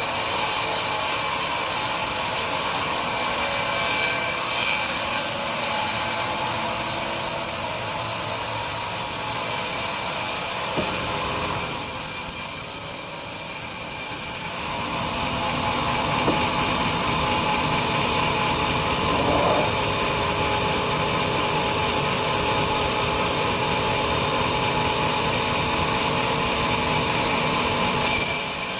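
Large sawmill bandsaw running and cutting through a big log: a steady, loud hiss with a faint whine, changing in tone for a few seconds about eleven seconds in.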